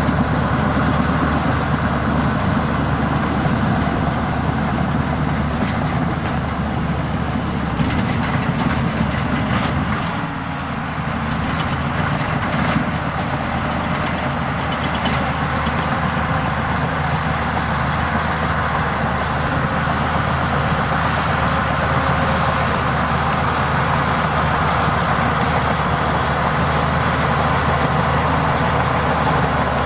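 Heavy diesel engine of earthmoving equipment running steadily, with a short dip in level about ten seconds in and a few faint clanks around then.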